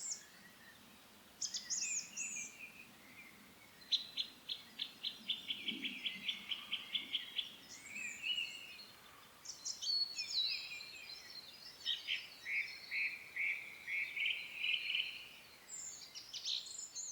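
Songbirds singing: short high chirps and quick runs of rapidly repeated notes, with a long trill about four seconds in and another in the second half.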